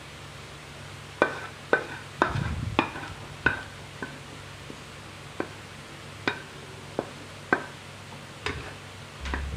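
Metal cooking utensil clinking and scraping against cookware: about a dozen sharp, irregularly spaced strikes with a short ring, starting about a second in, then a low thump near the end.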